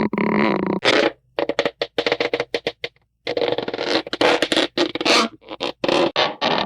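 A string of Hanna-Barbera cartoon sound effects cut one after another, with sudden starts and stops, including a run of quick short hits from about a second and a half in.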